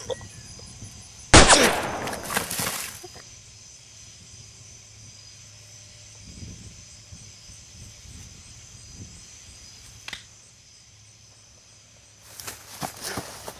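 A single gunshot about a second in, its report trailing off over a second or so, over a faint steady high-pitched background.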